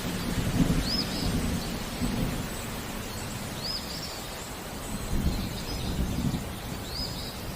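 Steady rain with low rumbles of thunder. Over them a single bird repeats a short, high, arched call about every three seconds, three times.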